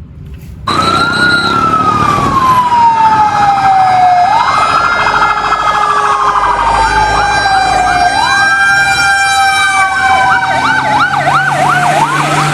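Electronic siren of a toy fire engine, starting about a second in. Slow wails fall in pitch and jump back up, repeating, then switch to a fast yelp near the end.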